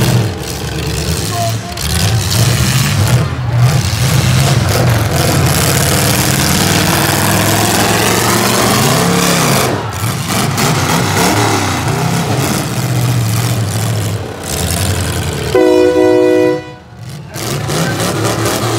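Demolition derby cars' V8 engines running hard, with a steady low drone and mixed noise of the cars. About three-quarters of the way through, a horn blasts for about a second.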